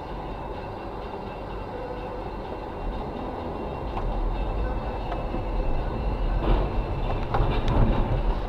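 Steady rumble of a moving vehicle heard from inside, growing a little louder, with a few short knocks and rattles near the end.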